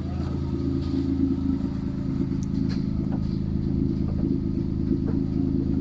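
Toyota Aygo idling steadily through a custom 2.5-inch catback exhaust, a low even drone that holds the same pitch, with a few faint clicks.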